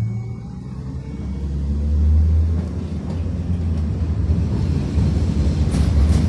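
Tatra T6B5SU tram rumbling as it moves off and picks up speed, a steady low hum that grows louder about two seconds in, with a few sharp clicks from the wheels on the rails near the end.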